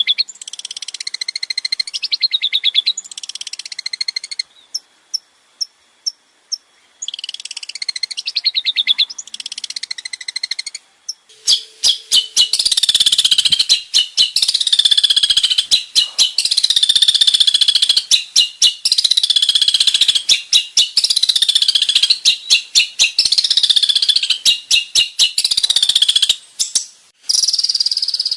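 Male long-tailed shrike (cendet) singing a varied song of rapid chattering trills and sweeping notes, which mimic other birds. The song breaks off for a couple of seconds about 4.5 s in, then turns denser and louder from about 11 s.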